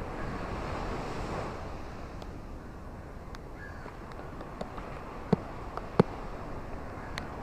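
Ocean surf washing on a beach: a wave hisses in over the first second and a half, then eases to a lower rush. A few sharp clicks sound through it, two louder ones about five and six seconds in.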